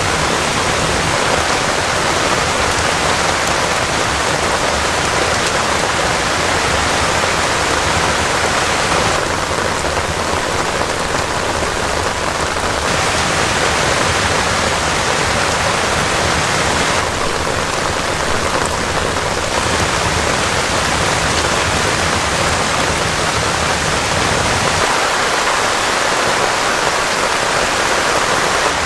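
Heavy rain falling steadily, a dense even hiss. Twice, for a few seconds each, it turns a little duller in the upper range.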